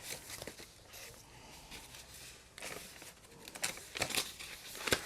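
Soft paper rustling as pages of a book are leafed through, with a few light taps and rustles, more of them in the last couple of seconds.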